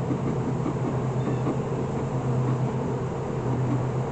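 Steady hum of a great many honeybees swarming over the frames of an opened hive.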